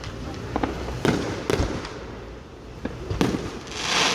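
Fireworks going off: a series of sharp bangs, some close together, followed near the end by a hissing swell.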